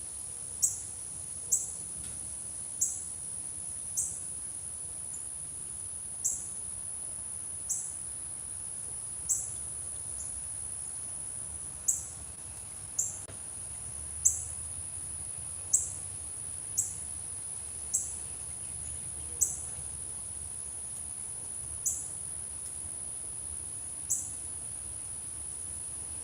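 A bird's sharp, high chip notes, each falling slightly in pitch, repeated irregularly about once every second or two over a continuous high-pitched insect drone.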